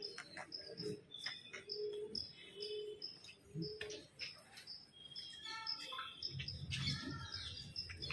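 Faint outdoor birdsong: a rapid, even run of short high chirps repeating throughout, with a lower short note repeating about once a second in the first half and a few other calls in the middle.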